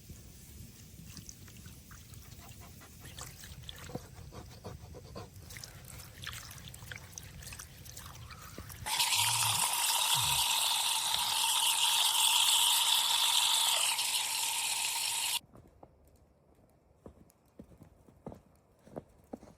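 Water pouring in a steady stream for about six seconds, starting and stopping abruptly in the middle. Before and after it there are only faint scattered clicks and knocks.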